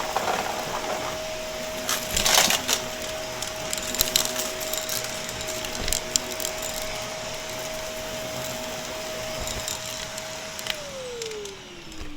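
Shark upright vacuum cleaner running with a steady motor whine, scattered crackling clicks of debris being sucked up. About ten and a half seconds in it is switched off and the whine falls in pitch as the motor spins down.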